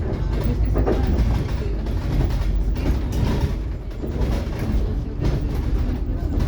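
Scania K360IB city bus under way, heard from inside the passenger cabin: a steady low engine and road rumble, with the body and fittings rattling and clattering over the road.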